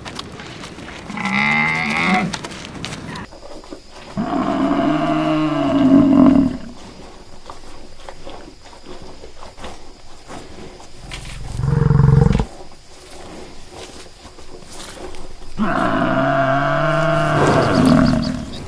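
Cattle mooing: four long, pitched calls with pauses between, the third lower and shorter than the others.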